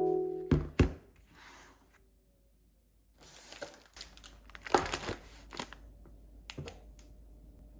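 Crinkling, rustling handling noise in a small room, with a few sharp clicks before and after it.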